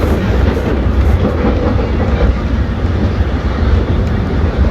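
Steady low rumble of a GO Transit commuter train coach running along the track, heard from inside the car, with a few faint clicks over the rails.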